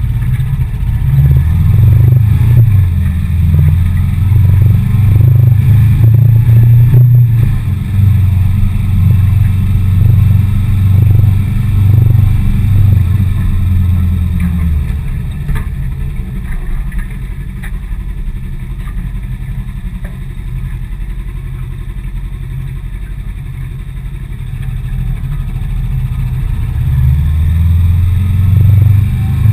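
Suzuki GS500E's parallel-twin engine running under way on the moving motorcycle, heard close from the bike. It pulls loudly for the first half, eases to a quieter note about halfway through, and picks up again near the end.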